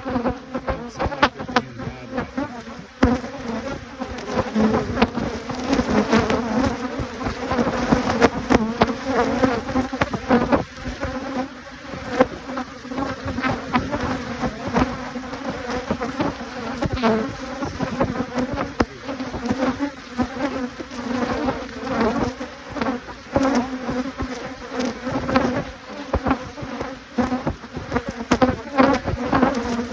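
Honeybees buzzing in a steady, low-pitched hum around an opened hive, with frequent scattered clicks and knocks over it.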